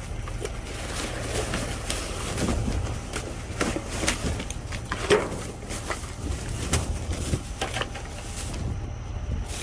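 Hands rummaging through bagged items in a dumpster: irregular crinkles, rustles and light knocks of plastic and packaging, with a sharper knock about five seconds in, over a low steady rumble.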